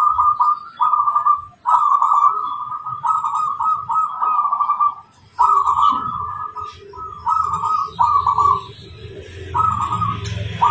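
Zebra dove (perkutut) cooing: a run of rapid, trilling coo phrases, each about a second long, repeated with short pauses between them. A low hum rises underneath near the end.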